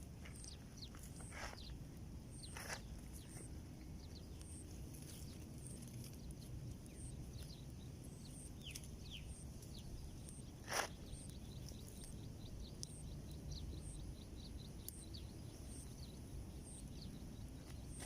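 Faint rural outdoor ambience: a steady low rumble of wind noise, a very high chirp repeating about twice a second, and scattered bird chirps. A few light knocks, the loudest a single sharp knock about eleven seconds in.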